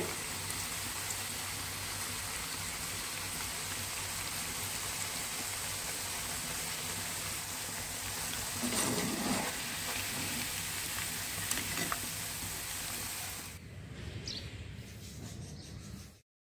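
Cauliflower pakoras deep-frying in hot oil: a steady, even sizzle that drops away sharply near the end.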